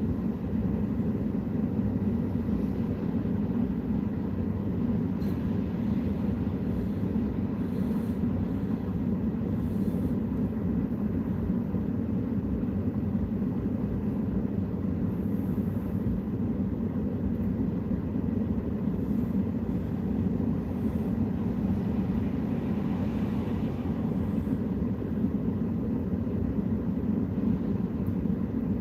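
Steady low rumble of vehicle noise, even throughout, with no distinct knocks or other events.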